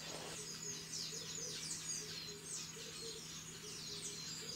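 Birds chirping in a dense, continuous stream of short, quick, falling chirps, with a low steady hum underneath.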